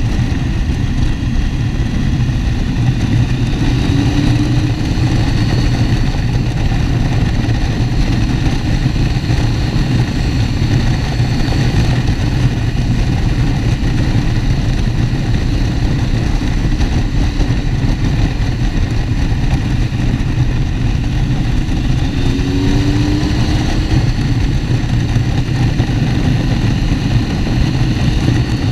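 Motorcycle engine and wind noise while riding, heavy and steady in the low range. The engine pitch rises briefly twice, about four seconds in and again over twenty seconds in.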